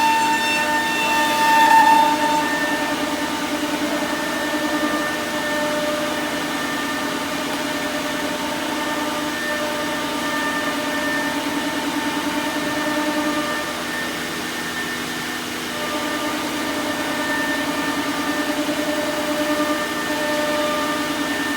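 CNC router's horizontal spindle running with a steady whine while it machines lock holes in a door. A louder high tone sounds in the first two seconds, then the machine runs on evenly with small rises and falls in level.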